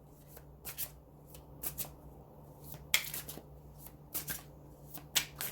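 Tarot cards being handled and shuffled: a scattered series of short card flicks and snaps, about a dozen over a few seconds.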